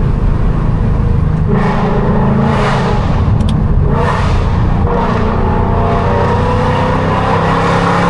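Straight-piped, catless 2019 Mustang GT 5.0 V8 exhaust under hard acceleration, the engine note climbing in pitch, with a couple of brief breaks where the pitch drops and climbs again.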